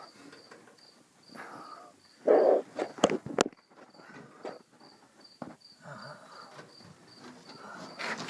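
A cricket chirping steadily, about three chirps a second. A loud rustle and a couple of sharp clicks stand out about two to three and a half seconds in.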